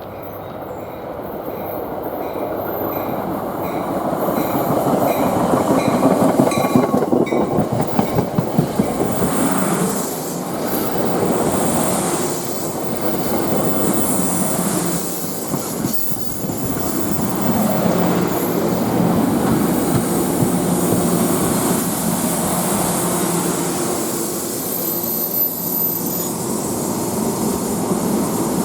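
NJ Transit commuter train running through the station on a curve. It grows louder over the first few seconds, its wheels clack in a quick rhythm over the rail joints, and they squeal against the curved rail.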